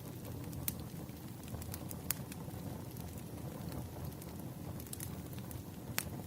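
Wood fire burning, with a steady low noise of the flames and scattered sharp pops and snaps. The loudest pops come about two-thirds of a second, two seconds and six seconds in.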